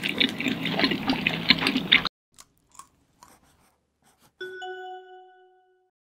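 Close-miked eating sounds of takoyaki being chewed, many small clicks and smacks, cutting off abruptly about two seconds in. After a few faint sparkle blips, a single chime-like note rings out and fades over about a second, a logo sting.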